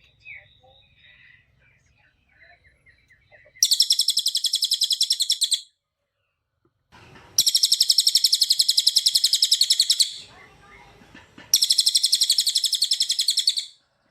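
Cililin songbird singing: a few faint chirps, then three loud, very rapid high trills, each two to three seconds long, delivered in tight rapid-fire bursts.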